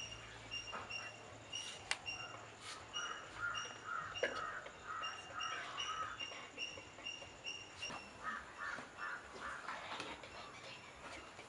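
Birds calling: a short high note repeated about three times a second, with two runs of quicker, lower calls in the middle and towards the end. A few light clicks of a knife slicing ash gourd sound between them.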